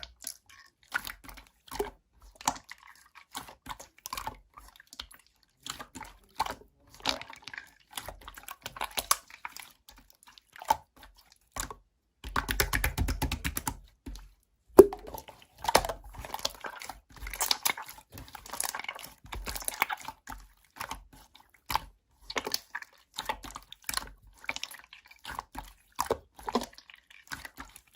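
Irregular sticky clicks, crackles and wet squishing sounds, with a dense run of rapid crackling about twelve seconds in.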